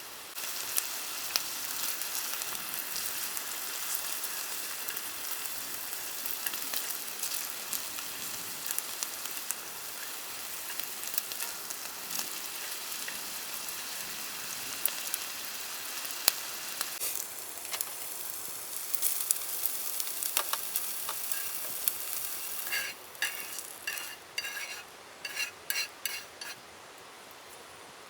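Food sizzling in hot oil in a pan, a steady crackling hiss that starts suddenly just after the start and stops about 23 seconds in, followed by a series of light sharp clicks and taps.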